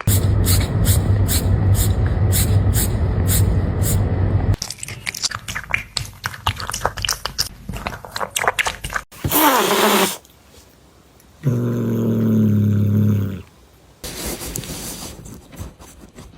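A series of different domestic cat sounds cut one after another. A steady low rumble runs for the first four or so seconds, then comes rapid clicking, a short falling call near the middle, and a steady low-pitched call a couple of seconds long, followed by more clicking.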